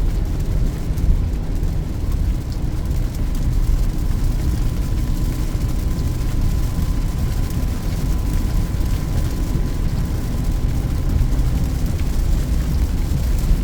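Steady cabin noise of a Peugeot 2008 climbing a mountain highway in heavy rain: a low rumble of engine and tyres on the wet road under a hiss of spray and rain, with a faint thin steady tone through the middle.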